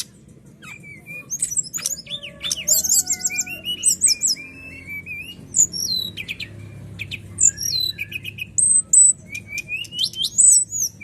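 Brown-chested jungle flycatcher singing a varied, clear song: quick whistled phrases, sharp high down-slurred notes and rapid runs of chirps, with short pauses between phrases.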